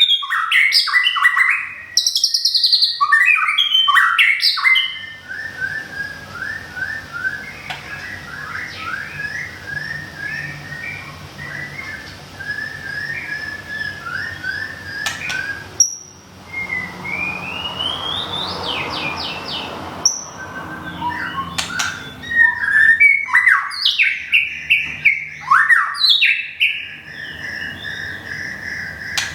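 White-rumped shama singing. Loud whistled phrases open the song, then give way to a long stretch of soft, quick twittering with a rising whistle past the middle, and loud phrases return over the last several seconds.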